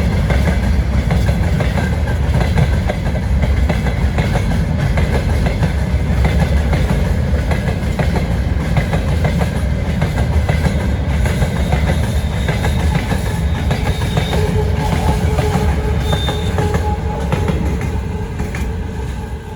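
Freight train wagons rolling past close by: a heavy rumble with a rapid, continuous clickety-clack of wheels over rail joints, a few faint wheel squeals in the second half, and the noise starting to fade near the end.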